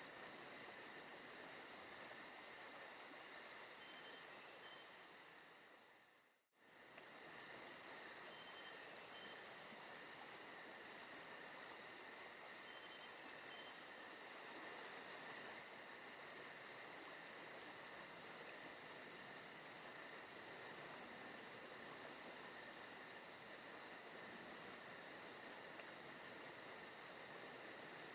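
Faint forest ambience at night: crickets chirping in a steady, rapid pulse over an even insect drone. The sound fades away and comes straight back about six seconds in.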